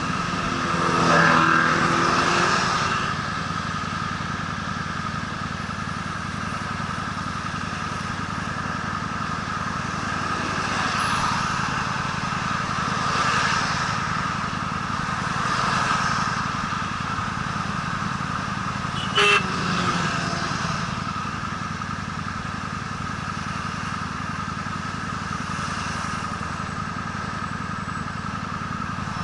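Honda Steed V-twin motorcycle engine running steadily under way, with a constant rush of riding noise. A few swells come and go, and there is one sharp click about two-thirds of the way through.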